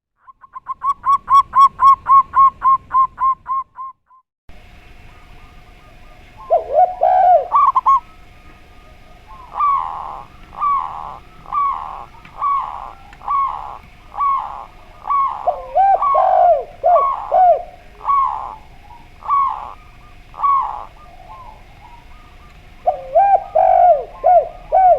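Caged doves cooing, a zebra dove (perkutut) and a derkuku: a quick, even run of about twenty ringing notes at first, then after a short break repeated phrases of short, curved coos. A faint steady hum runs under the later coos.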